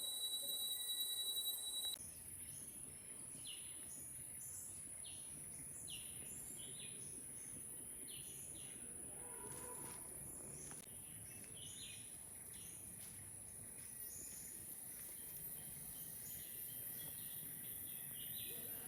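Tropical rainforest ambience: a steady high-pitched insect drone, with many short chirping calls repeating throughout. A second piercing insect tone stops suddenly about two seconds in.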